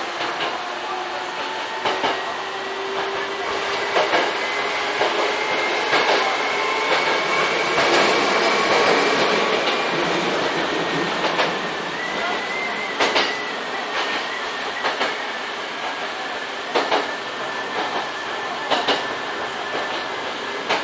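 Electric commuter train running, heard from inside the driver's cab: a steady rolling rumble with sharp rail-joint clicks every second or two. The noise swells for a few seconds around the middle as the train passes through a short tunnel. A faint whine rises slowly in pitch underneath.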